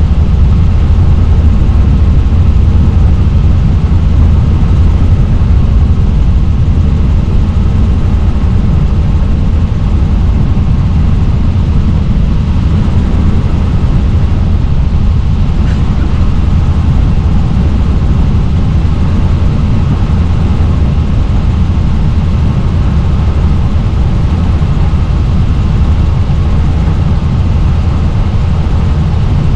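Helicopter in flight: loud, steady rotor and engine noise, mostly a deep rumble.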